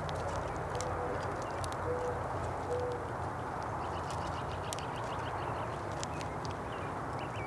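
A dove cooing: three short, low notes about a second apart, over scattered sharp clicks and a steady low background hum.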